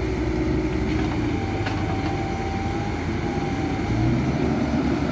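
Excavator's diesel engine running steadily, with a thin whine held for about two and a half seconds in the middle.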